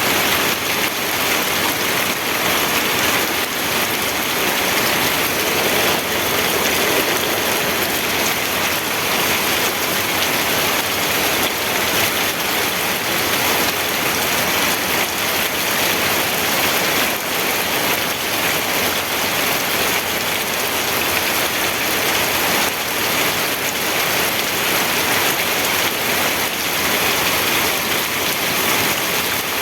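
Steady rain falling, a continuous hiss with fine patter of drops on a surface.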